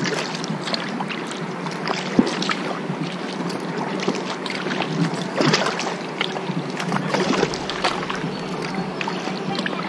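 Kayak paddle strokes dipping and splashing in the water, irregular and repeated, over a steady hum.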